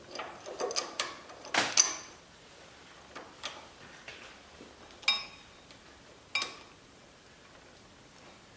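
Metal clinks and knocks from handling steel brake caliper bracket parts and bolts while test-fitting them: a quick cluster of clicks and knocks at the start, the loudest just before two seconds in, then three single clinks that ring briefly, spaced about a second and a half apart.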